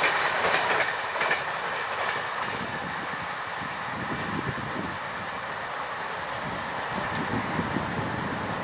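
Passenger coaches of a 24-coach Indian express train rolling along the track, wheels clattering over the rail joints. The sound drops about a second in and carries on as a lower, steady rumble as the end of the train pulls away.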